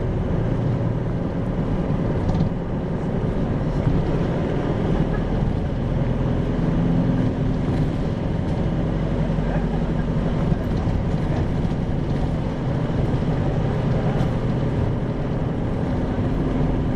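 Isuzu 2RG-LV290N4 city bus running, heard from inside the passenger cabin. Its diesel engine and road noise are steady, and the engine note shifts in pitch a few times as the bus drives.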